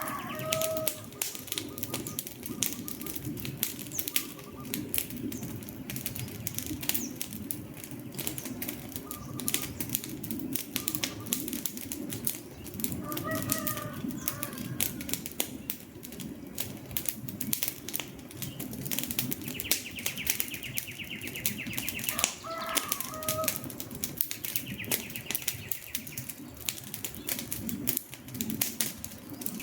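Wood campfire crackling and popping steadily over a low rush of flames. Birds call briefly a few times, with a buzzing trill twice in the second half.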